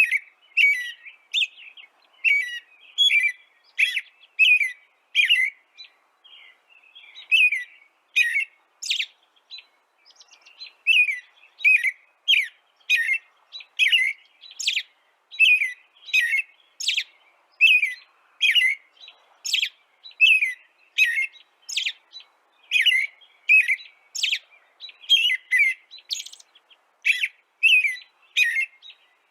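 A small bird chirping: short, high chirps in a steady, regular series, about two a second, with a brief pause about ten seconds in.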